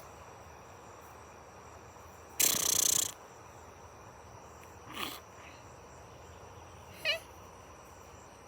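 Crickets trilling in one steady thin high note. About two and a half seconds in there is a loud noisy burst lasting about half a second, and near seven seconds a short pitched chirp.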